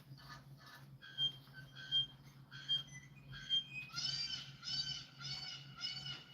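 Bird calls repeated in a steady series: quick short notes at first, then four sharp, louder calls a little under a second apart, then from about four seconds a run of fuller calls a little over a second and a half per second, over a steady low hum.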